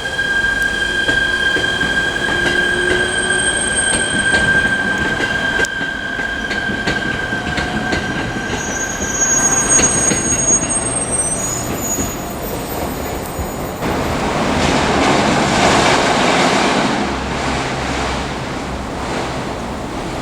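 Railcar wheels squealing on curved depot track as the cars are shunted: a steady high squeal for about the first ten seconds, several higher squeals overlapping after it, then a louder rolling rumble in the second half as the cars pass.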